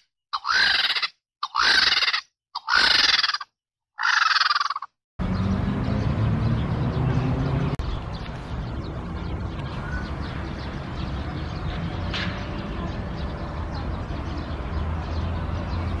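A bird gives five harsh squawking calls in quick succession, each under a second long. About five seconds in, they give way to a steady outdoor background with a low hum.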